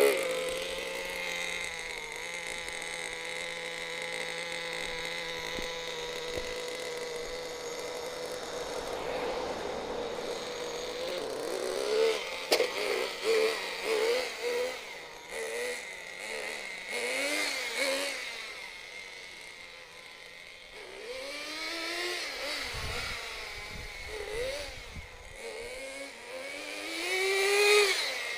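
FTX Banzai .18 nitro RC car's small two-stroke glow engine idling steadily, then revved in short repeated bursts from about twelve seconds in, with a longer rising rev near the end. The revs keep climbing and falling without a shift: the two-speed gearbox is not shifting up, its grub screw set too tight.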